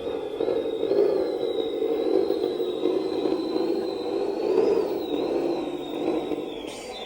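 Radio-controlled dump truck driving: a high, thin motor and gear whine that rises and falls with the throttle, peaking about a second in and again near the middle, over a steady rumbling noise.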